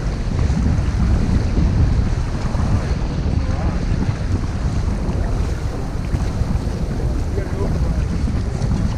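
Steady wind buffeting the microphone on a sailboat under way, a continuous low rumble with the wash of water along the boat beneath it.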